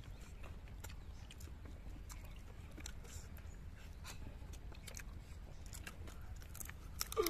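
Close, wet chewing and biting as a man eats meat off the bone with rice, in faint scattered mouth clicks. A bird calls briefly near the end.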